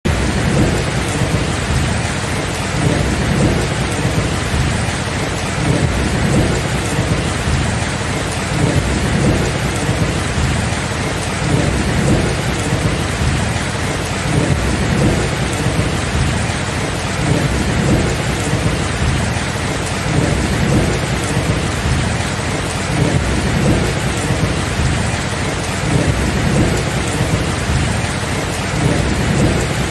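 Thunderstorm: steady heavy rain hissing, with low rolling thunder rumbling continuously underneath and swelling and fading every second or two.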